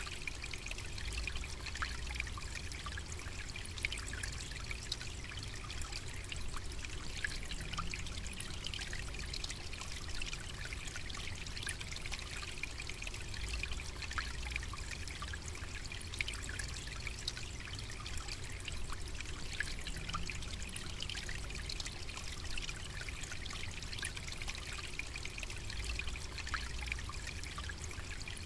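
Steady trickling, running water, full of small splashes and drips, over a low rumble.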